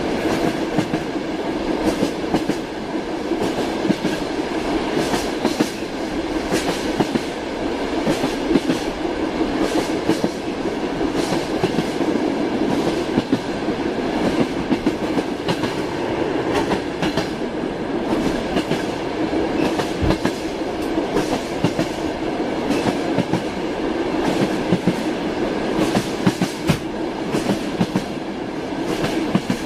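A moving train: a steady rumble of running wheels with the repeated clickety-clack of wheels striking rail joints, irregular knocks coming every second or so.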